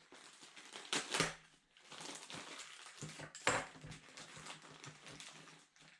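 Handling noise from small parts and tools being worked by hand: a few sharp knocks, two close together about a second in and one more past the middle, over faint rustling.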